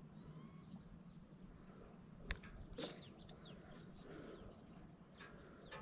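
Faint bird chirps over a quiet outdoor background, with one sharp click a little past two seconds in.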